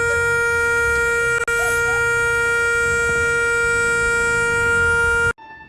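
A loud, steady, unwavering horn-like tone held for about five seconds, with a momentary break about a second and a half in, then cutting off abruptly.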